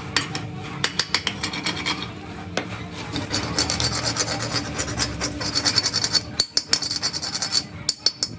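Rapid, irregular rasping strokes with many sharp clicks, several a second, running throughout.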